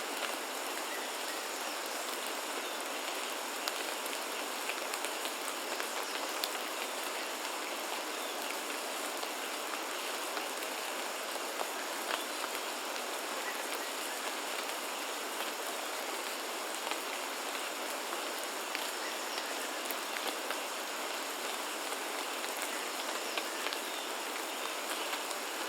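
Steady rain falling on foliage, an even hiss with many individual drops tapping, and a faint steady high tone running underneath.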